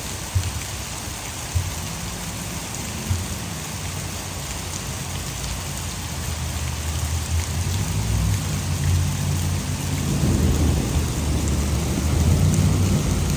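Heavy rain pouring steadily, with a low rumble of thunder that builds from about halfway through and is loudest near the end. Three sharp cracks come in the first three seconds.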